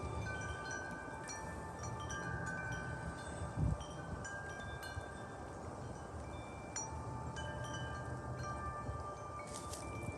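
Metal wind chimes ringing in the wind, with many clear tones struck at irregular moments over a low rumble of wind. There is one short low thump about three and a half seconds in.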